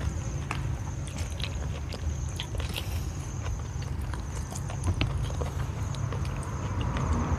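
Close-up chewing and mouth sounds of a person eating, with scattered small clicks as fingers pick apart food.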